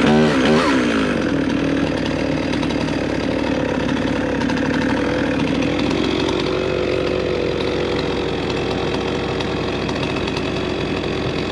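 Stihl MS311 two-stroke chainsaw running at high revs, cutting through a spruce log. Its pitch wavers and dips during the first second as it bogs into the wood, then holds steady.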